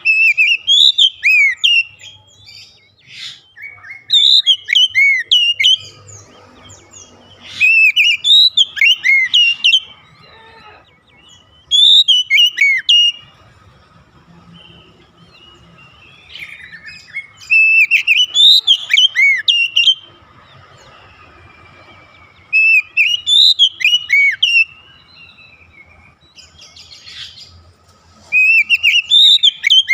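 Oriental magpie-robin (kacer) singing: loud, varied whistled phrases of about two seconds each, repeated about every four to five seconds with short pauses between them.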